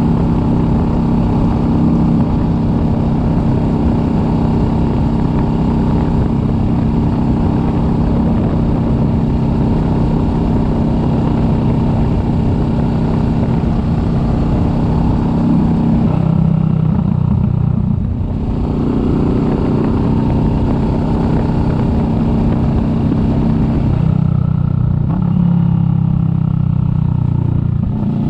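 Kawasaki Vulcan S 650 parallel-twin engine running steadily under way, with wind noise over it. A little past halfway and again near the end, the engine note shifts and the wind hiss drops for a few seconds.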